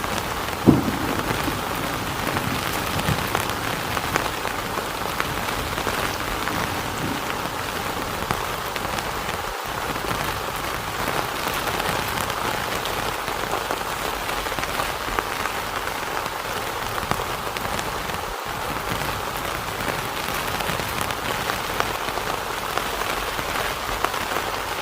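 Steady heavy rain falling on a tent, a dense patter of drop hits, with one short low thump under a second in.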